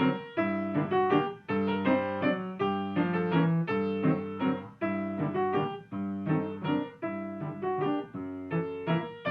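Piano music: a melody of struck notes over chords, each note decaying after it is played.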